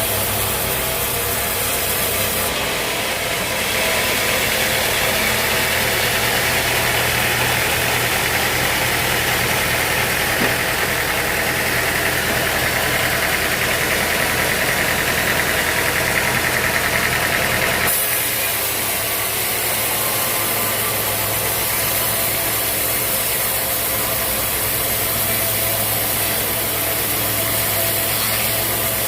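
A sawmill's engine-driven saw runs steadily with a low hum. From about three seconds in, a louder hissing whine joins as the saw cuts through the log. It drops away suddenly about eighteen seconds in, leaving the machine running.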